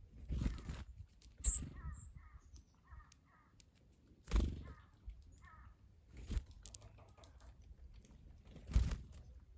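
Crows cawing in a short series of harsh calls. Five louder, short noises come at uneven intervals.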